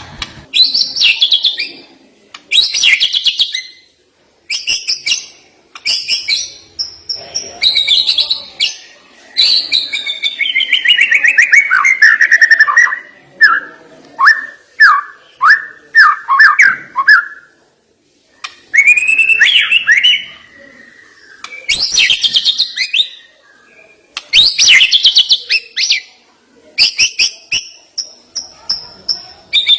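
White-rumped shama (murai batu) singing loud, varied phrases in bursts with short pauses between them. Around ten seconds in, a long falling whistle gives way to a run of quick downward notes.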